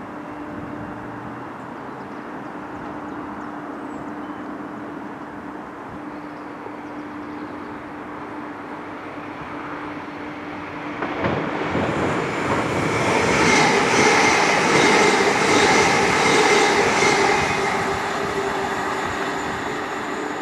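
A train passing close on the main line. A steady hum builds, then about halfway through the wheels and rails swell into a loud rush with a regular clatter of wheelsets over rail joints, easing off near the end.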